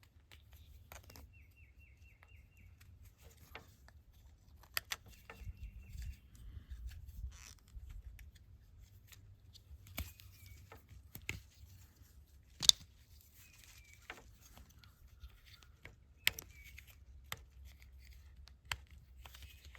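Small, sharp plastic clicks and handling noise, scattered and irregular, from a solar-panel wire connector being screwed together and tightened with its little plastic wrenches. The loudest click comes about two-thirds of the way through.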